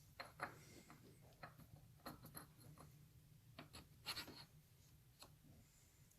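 Faint, scattered light clicks and scrapes of metal parts being handled as a roller chain is fitted onto a motorcycle's front final drive sprocket, over a low steady hum.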